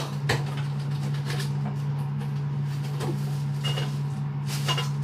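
A few short knocks and rustles from a new whistling kettle and its packaging being handled, a couple of them with a brief metallic ring, over a steady low hum.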